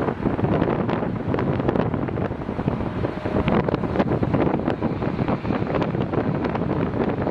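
Wind buffeting the microphone: a loud, continuous rush with many short pops and crackles from the gusts.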